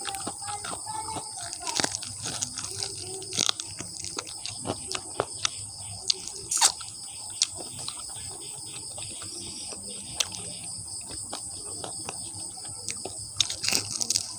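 Close-miked chewing of crunchy fried chicken feet: irregular crisp crunches and wet mouth clicks, a few of them loud, over a steady high hiss.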